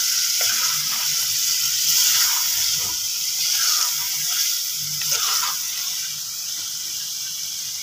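Potatoes and green peas frying in oil and masala in a steel pot, a steady sizzling hiss, with a metal ladle scraping against the pot a few times as they are stirred.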